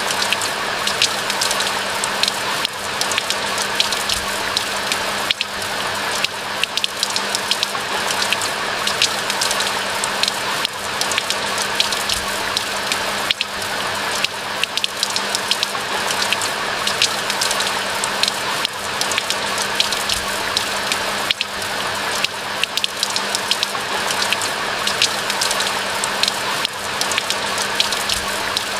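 Steady rain falling, a dense even hiss with many close drops ticking sharply and irregularly through it.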